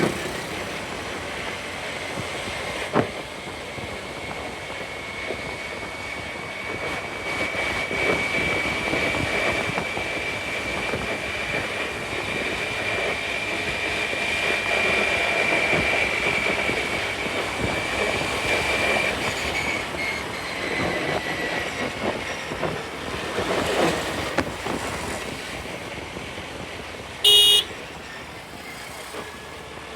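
Steady road and traffic noise with wind, heard while riding a scooter, and a brief vehicle horn beep near the end.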